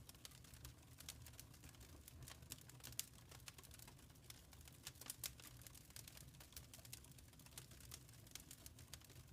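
Wood fire crackling in a fireplace: a quick irregular scatter of small pops, with one sharper pop about three seconds in, over a faint low rumble.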